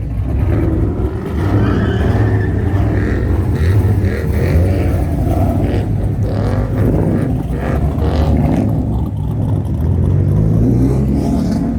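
A car engine revving hard and accelerating, its exhaust loud throughout, with the engine pitch climbing near the end.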